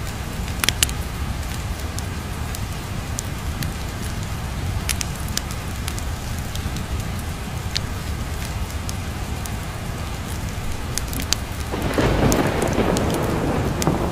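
Steady rain with a fireplace crackling, sharp pops scattered throughout. A rumble of thunder swells up near the end.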